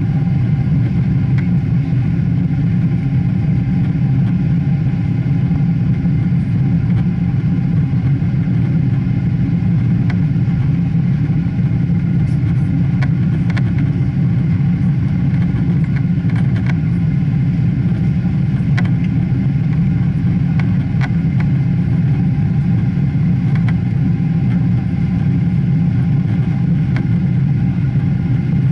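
Steady low drone of a Boeing 777's jet engines, even in level throughout, with a few faint ticks.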